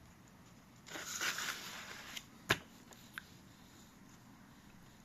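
Paper rustling for about a second as the pages of an instruction booklet are handled and turned, followed by a sharp click and a fainter click shortly after.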